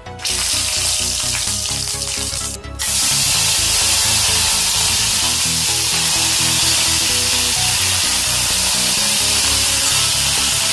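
Hot oil sizzling in a steel kadai as flour (atta) fries in it and is stirred with a metal spatula. The sizzle grows louder and steadier about three seconds in. Background music plays underneath.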